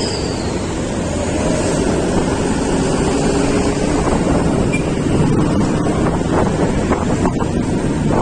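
Wind buffeting the microphone over the steady road rumble of a moving vehicle.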